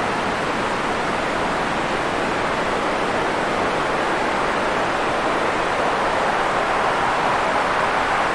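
Steady white-noise sleep track: an even, unbroken hiss with no rhythm or pitch, weighted toward the middle of the range.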